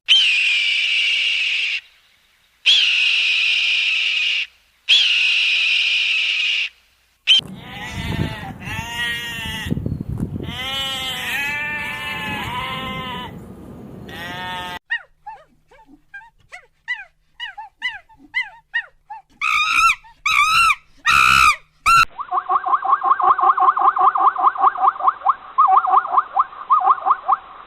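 A run of different animal calls, one after another. First come three long high-pitched calls. Then a stretch of rapidly wavering calls, then short chirps, and near the end a fast, evenly repeated call.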